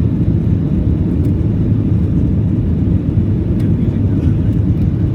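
Airliner taking off: a loud, steady low rumble of engines and rushing air.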